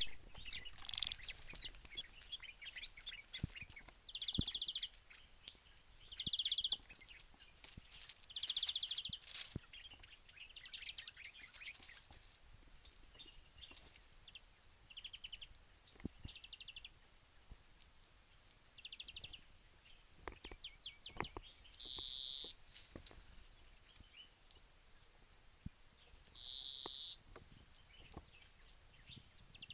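Songbirds singing: series of quick high chirps run through most of the time, broken every few seconds by short buzzy trills that each last under a second.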